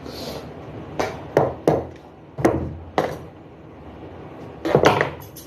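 A series of about six short, sharp knocks at uneven intervals, the last a quick double knock near the end.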